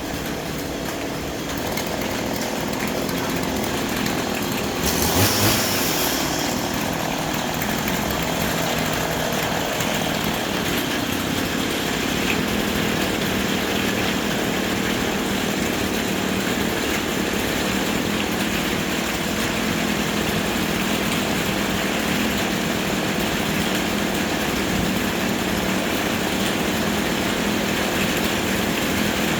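Chainsaw running steadily, with a brief louder burst about five seconds in.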